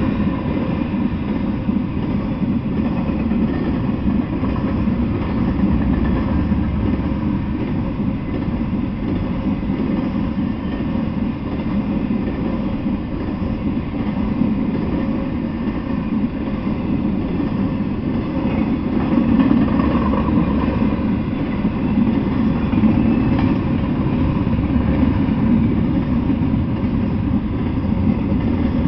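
Double-stack intermodal freight train rolling past: a steady low rumble of the cars on the rails, holding even throughout.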